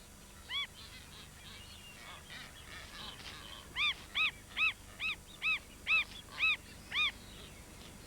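Galápagos mockingbird calling: two short nasal calls, then a run of about eight more at two or three a second, each call rising and falling in pitch.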